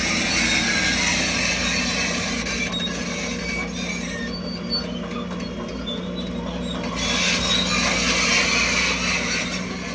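Crawler bulldozer working: a steady diesel engine hum under the metallic clatter and squeal of its tracks, which ease off about four seconds in and pick up again about seven seconds in.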